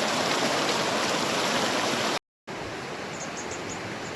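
Rushing water of a stream, a steady loud noise. It cuts off abruptly about two seconds in and resumes quieter, with a few faint high chirps near the end.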